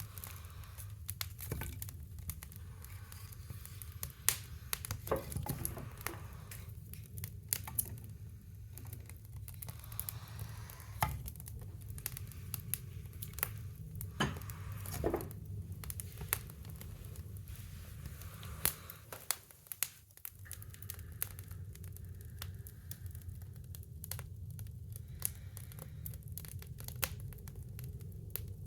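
Wood fire crackling in a woodstove: irregular sharp pops and snaps over a steady low background.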